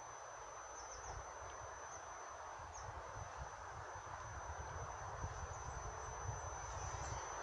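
Faint low rumble of a freight train approaching in the distance, hauled by an ET22 electric locomotive, slowly growing louder. A steady high-pitched whine runs under it, with a few small chirps about a second in and near three seconds.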